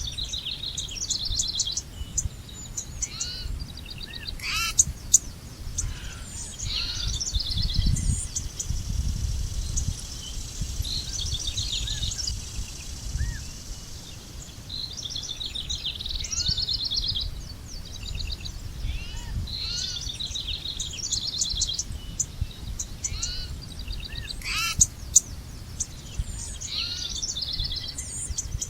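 Several songbirds singing and chirping, with rapid trills and short repeated calls throughout, over a low rumbling background noise that swells briefly about eight seconds in.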